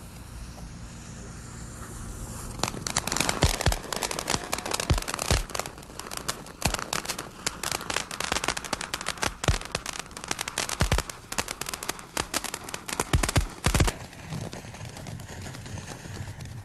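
Firecrackers going off in a rapid, dense string of sharp pops and crackles that starts about three seconds in and stops after about eleven seconds.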